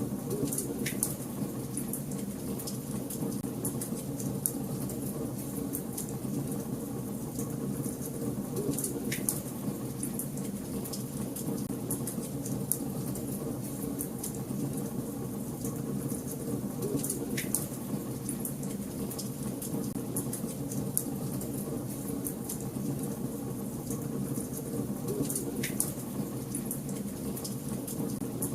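Wood fire in a fireplace burning with a steady low rush and constant small crackles. Four sharper pops come several seconds apart.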